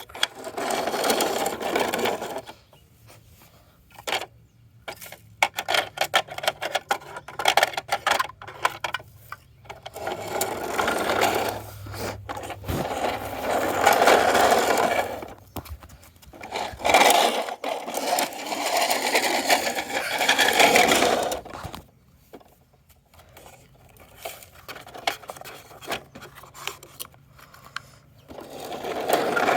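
Toy garbage truck's small electric motor whirring in several bursts of a few seconds each, with plastic clicks and rattles between them.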